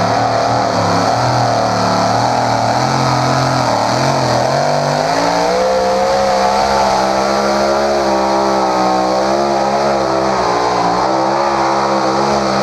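High-powered mud-bog truck engine running hard at high revs. Its pitch jumps up about five seconds in and then holds high, wavering as the throttle works. The sound cuts off abruptly at the end.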